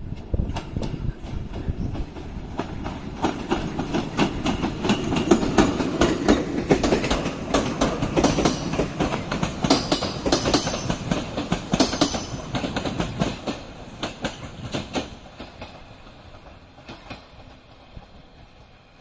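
A train passing, its wheels clattering in quick clicks over rail joints and points. Loudest in the middle, fading away over the last few seconds.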